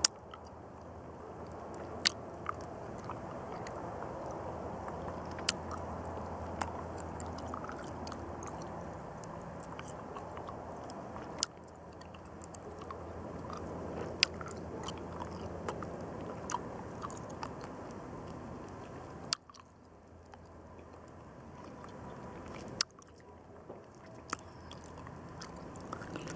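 Close-up chewing of a chewy chili-coated fruit candy: wet mouth and jaw sounds over a steady low background noise. Several sharp clicks come a few seconds apart.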